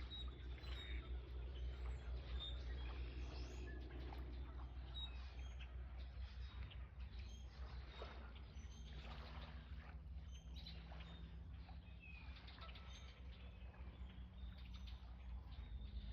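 Small birds chirping and calling: short, high notes scattered through, over a faint steady low rumble.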